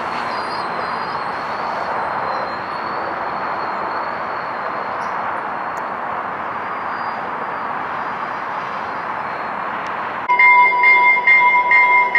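A Trinity Railway Express commuter train running by, a steady rushing rail and wheel noise. About ten seconds in, a much louder ringing tone starts and repeats about three times a second.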